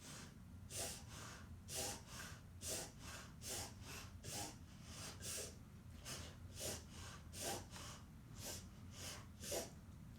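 A dog reverse sneezing: rapid, repeated forceful inhalations through the nose, about two a second. The vet identified this unusual breathing as reverse sneezing.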